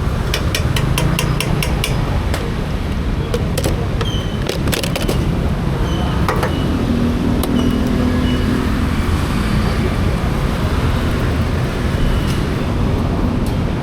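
Steady wind and road noise of a vehicle on the move, with passing traffic. A quick run of about eight clicks comes in the first two seconds, and a steady low hum rises for a couple of seconds in the middle.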